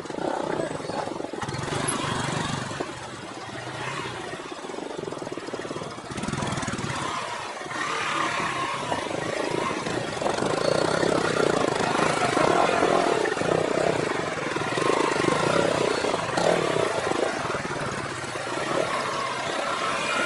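Motorcycle engine running while riding, mixed with wind on the microphone; it gets louder about eight seconds in.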